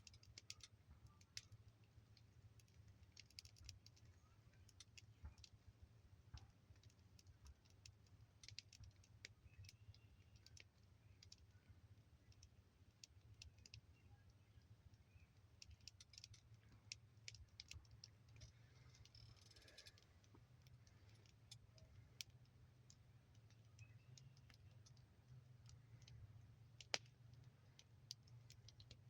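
Faint, irregular crackling and popping of burning wood in a fire, sharp clicks scattered unevenly, a few louder pops among them.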